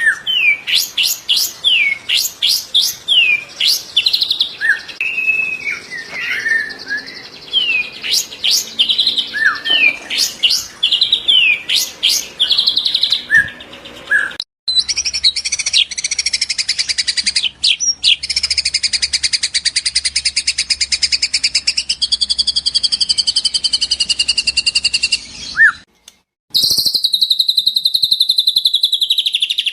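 White-rumped shama (murai batu) singing: a run of varied clear whistles and sharp rising notes, then long, fast rattling trills, the rapid-fire 'tembakan' bursts. The song breaks off abruptly twice, once about halfway through and once near the end.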